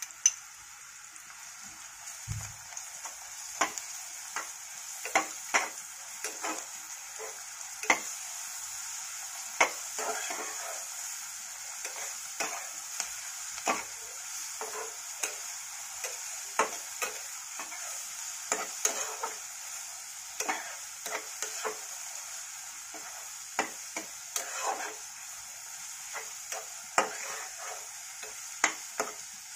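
Onion and ginger-garlic paste sizzling in hot oil and ghee in a pressure cooker pot, sautéed until soft. A spatula scrapes and taps against the metal pot at irregular intervals, roughly one or two times a second, over a steady frying hiss.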